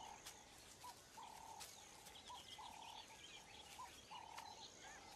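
Faint bird calls: a call repeated about every second and a half, a short note followed by a longer level note, with faint high chirps above it.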